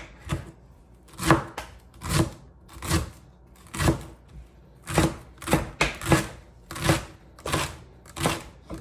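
A knife slicing celery thin on a cutting board: a crisp crunch of the stalk and a knock of the blade on the board at each slice, roughly one slice a second and sometimes two in quick succession.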